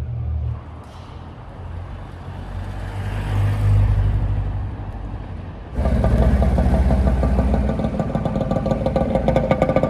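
Classic car engines. One car's engine swells to a peak and fades as it passes; then, after an abrupt cut about six seconds in, a louder engine runs close by with a rapid, even pulse.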